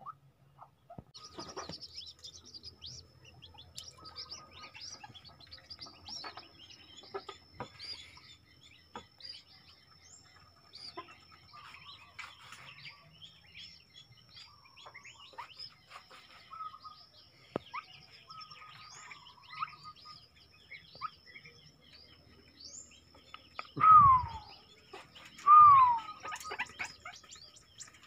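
White-breasted waterhens with their chicks: many small high chirps and peeps over a thin steady high tone. Near the end come two loud calls, each falling in pitch, about a second and a half apart.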